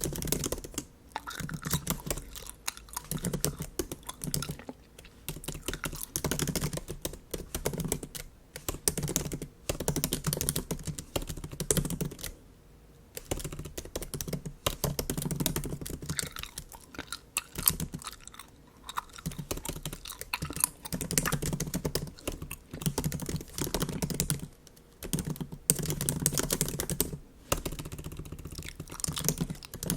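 Typing on a MacBook keyboard: fast runs of soft key clicks broken by a few short pauses.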